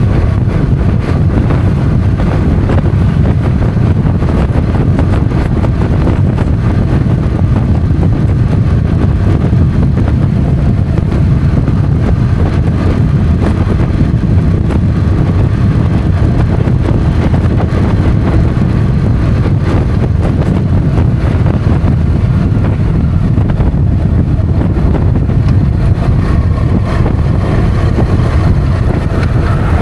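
Motorcycle riding at steady speed on the open road: heavy wind rumble on the camera's microphone over the engine's steady running.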